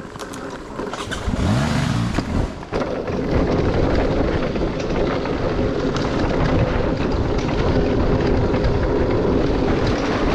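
Dirt bike engine revving up about a second in, then running steadily as the bike rides along the trail.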